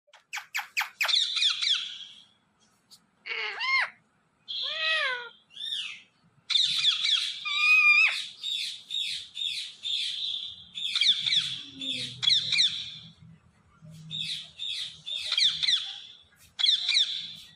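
A parrot chirping and squawking in repeated bursts, with a few rising-and-falling whistles about three to six seconds in and a quick run of clicks at the start.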